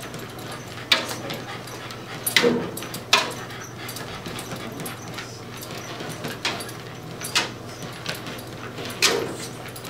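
A dog whimpering, with a short sharp sound every second or two, over a steady low hum.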